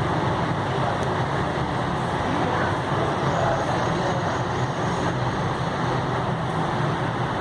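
Steady background rumble, like road traffic.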